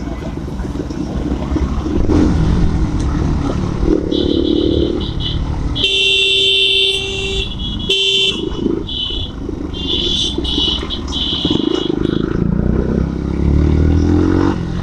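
Motorcycle engines running on the move with road noise, while vehicle horns honk repeatedly, in short and longer blasts, from about four seconds in until about twelve seconds in.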